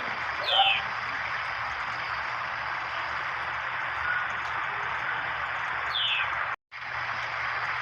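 A steady hiss with two short downward-gliding bird chirps, one about half a second in and one near six seconds. The sound cuts out for a moment just after the second chirp.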